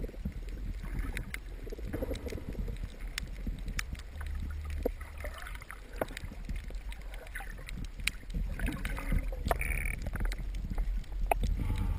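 Underwater ambience recorded by a diving camera: a steady low rumble of water movement with scattered sharp clicks and crackles.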